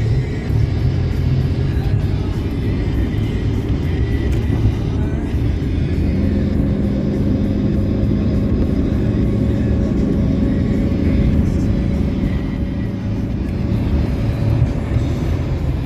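Road and engine noise inside a vehicle's cabin at highway speed, a steady low rumble, with a car radio playing music underneath. A steady hum comes in about six seconds in.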